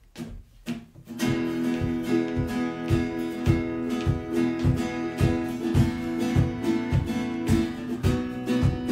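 Acoustic guitar strumming a song intro. After a few soft strokes it settles, about a second in, into full chords with a steady rhythm of about two strums a second.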